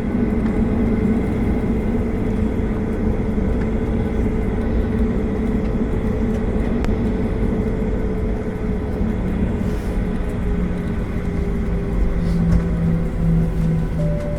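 Boeing 737-800 jet engines running, heard from inside the cabin: a steady drone with a low hum and a higher tone that both slowly sink in pitch.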